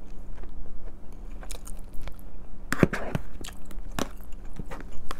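Close-miked chewing and wet mouth clicks of a person eating, with a few sharper clicks of a fork against plastic takeout containers.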